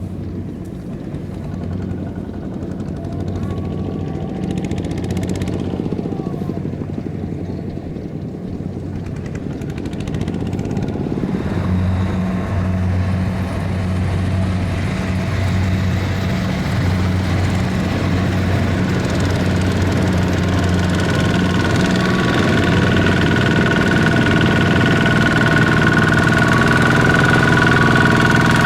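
Single-cylinder diesel engine of a small Kubota ZT155 tractor running steadily. It grows gradually louder, and a thin high whine joins in during the second half.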